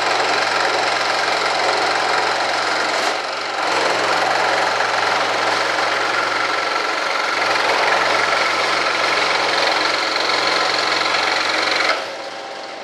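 Electric power saw running and cutting, a steady buzzing drone with a short dip about three seconds in. It stops abruptly about a second before the end.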